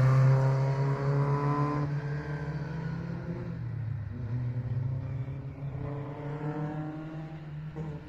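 Historic rally car accelerating away after passing close, its engine pitch climbing through the gears with an upshift about two seconds in and another near the end, fading as it goes.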